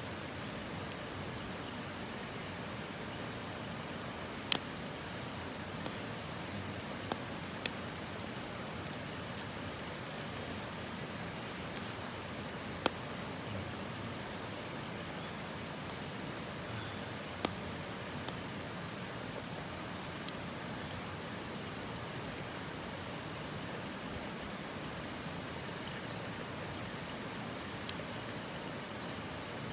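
Campfire crackling: sharp pops from burning wood at irregular intervals over a steady hiss.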